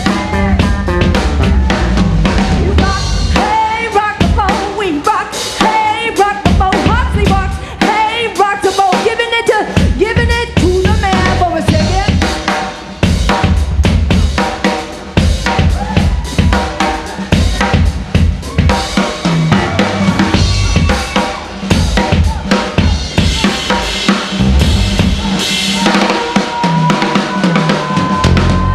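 Live band playing an instrumental break: a full drum kit plays a busy beat of bass drum and snare hits, with bending melodic notes over it.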